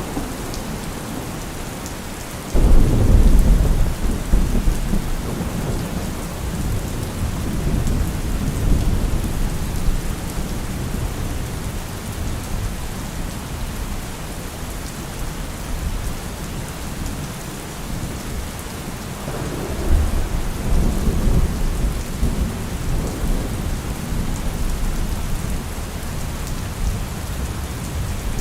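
Steady heavy rain with two rolls of thunder: a sudden loud crack and rumble about two and a half seconds in that dies away over several seconds, and a second rumble near twenty seconds in.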